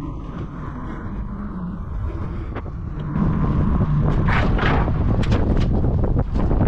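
Wind buffeting the microphone of a moving bicycle, a heavy low rumble that gets louder about three seconds in, with gusty swells and a few faint knocks.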